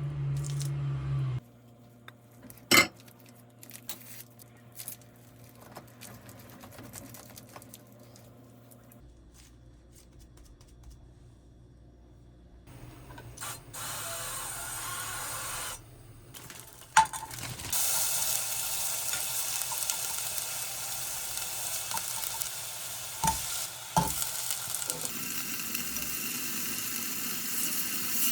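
Food sizzling in a frying pan, a steady hiss that starts about eighteen seconds in, with a few sharp clicks of a utensil against the pan. Before that, quieter kitchen handling with a sharp click early on and a short burst of hiss.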